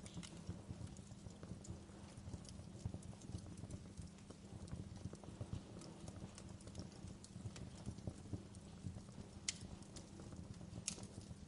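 Wood fire crackling in a fireplace: a soft steady low rumble of burning with many small irregular crackles and two sharper pops near the end.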